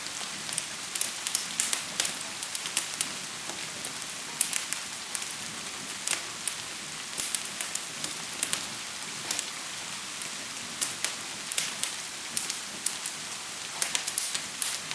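Gentle rain and a crackling fire together: a steady rain hiss under frequent, irregular sharp crackles and pops.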